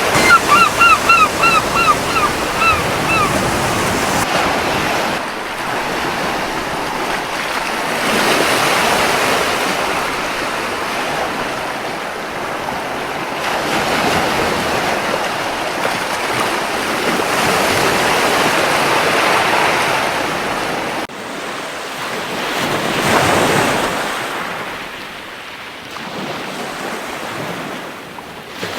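Surf washing onto a beach, waves swelling and falling back. In the first three seconds a gull gives a quick run of about eight short calls.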